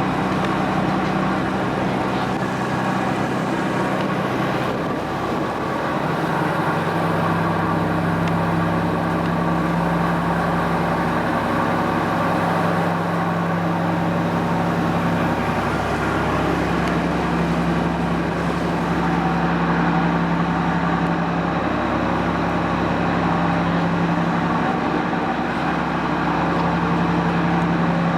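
Boat engine running steadily under way, a constant drone whose note drops slightly about five seconds in.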